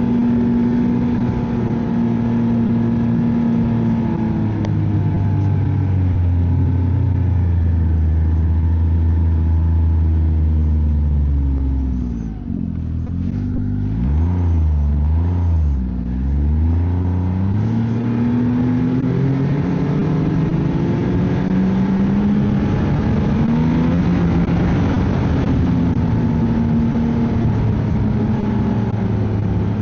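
Ski-Doo snowmobile engine running under way. Its pitch drops about four seconds in, holds steady, then dips and wavers near the middle as the sled slows, and climbs back up as it speeds up again.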